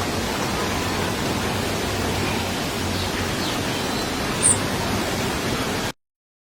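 Steady outdoor background hiss with a faint low hum and a few faint high chirps; it cuts off abruptly to silence near the end.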